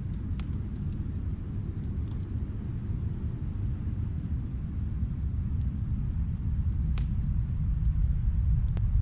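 Wood fire crackling, with scattered sharp pops over a steady low rumble that swells slightly near the end. Two louder pops come near the end.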